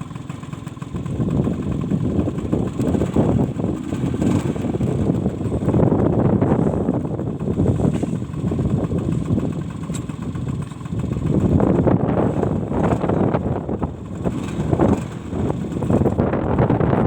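Wind buffeting the microphone over a running motorcycle engine while riding through a strong sandstorm, the rush rising and falling in gusts.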